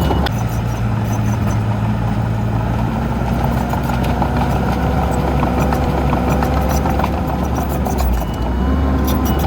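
Diesel engine of heavy earthmoving equipment running steadily under load. Its note shifts shortly after the start and again near the end.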